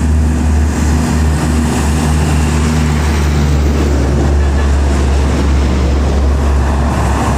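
A large intercity bus driving past on the highway: a loud, steady, deep engine and road rumble that holds for the whole stretch.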